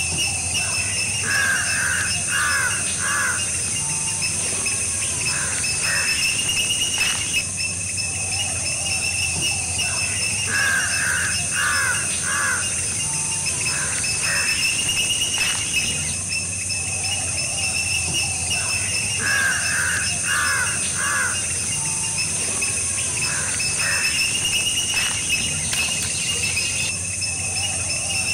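A bird calling in sets of three short notes, followed by a few fainter notes, the same phrase coming back about every nine seconds over a steady high insect drone.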